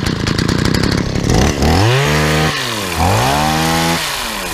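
Shindaiwa DH230 hedge trimmer's small two-stroke engine running just after starting, revved up twice for about a second each time, then dropping back to idle near the end.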